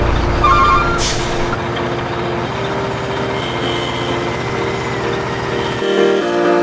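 Heavy truck sounds: reversing beeps that stop just under a second in, a short air-brake hiss about a second in, then the engine running steadily.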